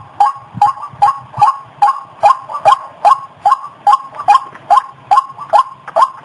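White-breasted waterhen (ruak-ruak) calling: a fast, steady run of loud repeated notes, about two and a half a second.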